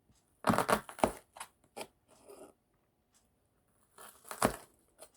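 Knife cutting through an onion onto a cutting board: a quick run of crisp chops about half a second in, a few lighter cuts after, and another cluster of chops around four seconds in.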